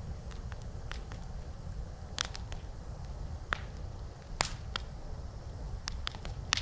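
Campfire wood crackling, with sharp pops at irregular intervals, a few standing out louder, over a steady low rumble.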